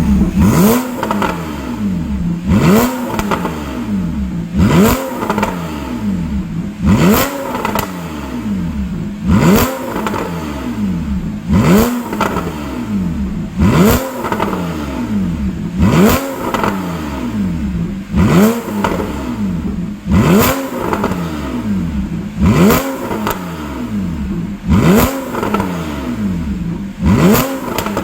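Porsche 911 Targa (991) flat-six through a custom exhaust, revved from idle in quick blips about every two seconds, each rising sharply and then falling back.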